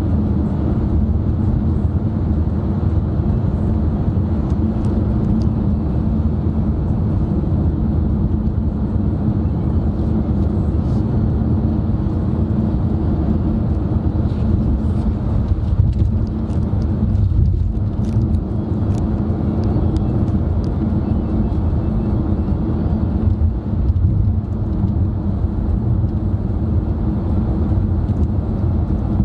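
Steady low drone of a car being driven, engine and tyre-on-road noise heard from inside the cabin, with a few faint clicks from the car's interior.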